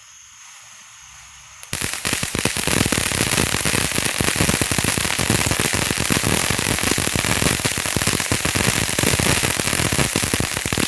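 World Class Fireworks 'Yin Yang' firework fountain spraying with a faint hiss, then almost two seconds in breaking suddenly into loud, dense, rapid crackling that keeps on: its crackle effect.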